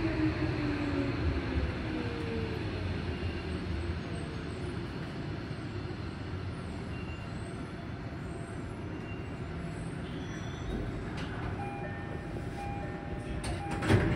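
Tobu 70000 series electric train heard from inside the car while it slows: the motor whine glides down over the first couple of seconds, then a low rumble of wheels on rail fades gradually. A sharp knock comes near the end.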